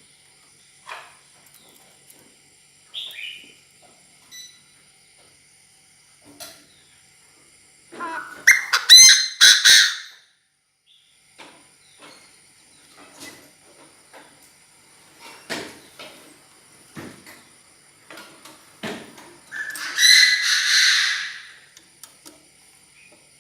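Captive decoy Chinese francolin crowing: a loud, harsh run of notes lasting about two seconds, given twice, about eight seconds in and again near twenty seconds, with faint scattered clicks between.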